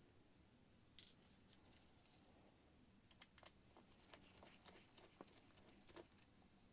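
Faint, irregular light clicks and ticks of a small precision screwdriver and tools on the metal plate and tiny screws inside an opened iPad, one sharper click about a second in and a run of quick small ticks later.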